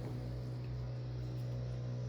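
A steady low hum with no other clear sound.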